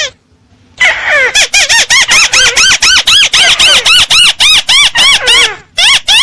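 Crake call played as a bird-hunting lure: a fast run of high notes, each rising and falling, about five a second. It starts after a short silence and breaks off briefly near the end.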